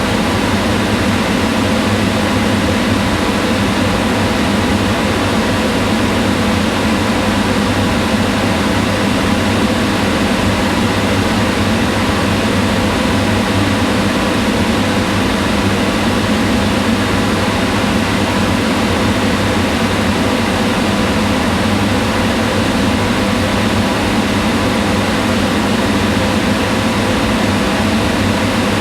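Kitchen range hood exhaust fan running steadily: an even rush of air with a low hum and faint steady tones.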